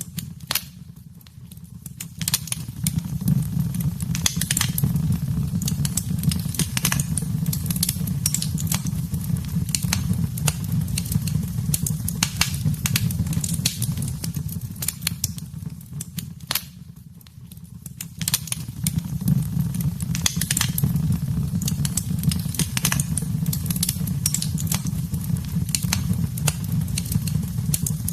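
Wood fire in a fireplace crackling, with frequent sharp pops and snaps over a steady low rumble. The rumble briefly drops away twice, near the start and about two-thirds of the way through.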